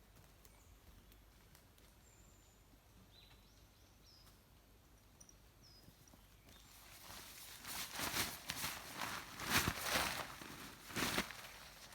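A few faint, short bird chirps over quiet outdoor background, then from about halfway through, irregular footsteps rustling through leaf litter and brush, growing louder.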